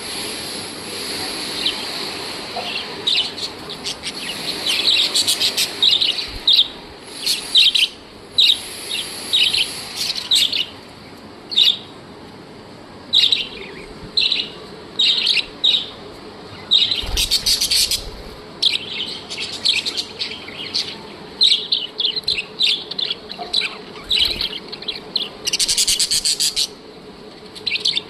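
Several budgerigars chirping and chattering: a quick, irregular run of short, high chirps, with a couple of louder, harsher calls about two-thirds of the way in and near the end.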